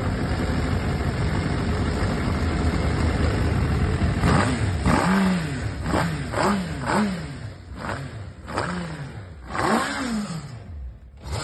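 Car engine, freshly started after five years unused, running steadily and then revved in a string of short throttle blips, each rising and falling in pitch, about once a second.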